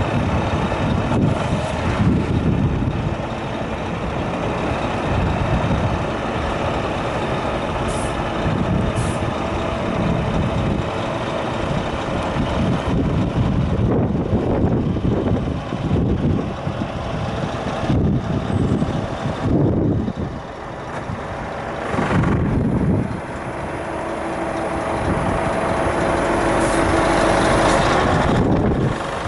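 Scania R 480 truck's diesel engine running, its level surging and easing several times. There are two brief hisses about eight and nine seconds in.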